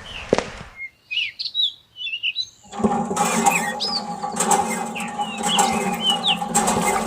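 Small birds chirping in short rising and falling calls. There are a few sharp clicks in the first second. From about three seconds in, a steady hum made of several tones runs underneath.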